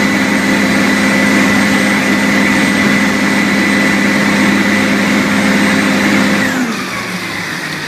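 Fire truck engine running fast with a steady whine. About six and a half seconds in it drops back, the whine falling in pitch as it slows.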